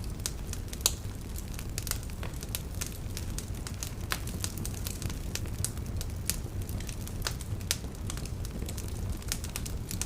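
Beach campfire crackling, with irregular sharp pops and snaps over a steady low rumble; one pop about a second in stands out loudest.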